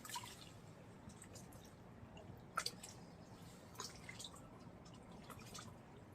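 Faint river water trickling over rocks, with a few scattered drip-like clicks.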